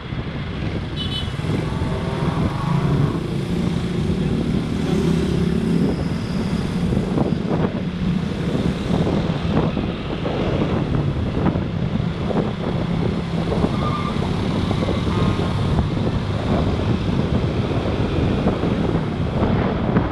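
A motorcycle engine running steadily while riding through road traffic, with wind on the microphone and other vehicles passing. Two short beeps, like horns, sound about two-thirds of the way through.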